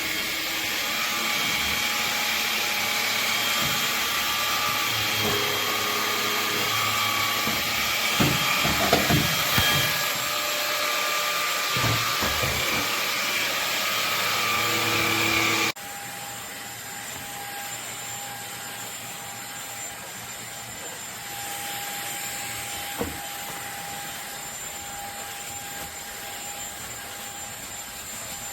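MONSGA cordless stick vacuum with a brushless motor, running with a steady whine and rush of air, with some uneven low rumbling partway through. About sixteen seconds in the sound cuts suddenly to a quieter, steady run, with a single short knock a little later.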